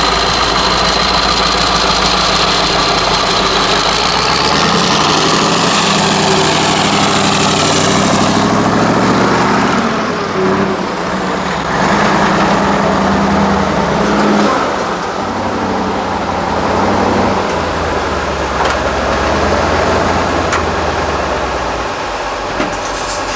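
Diesel engine of an 8x8 Mercedes-Benz trial truck working under load, its revs rising and falling several times. A high whine climbs in pitch about four seconds in as the engine revs up.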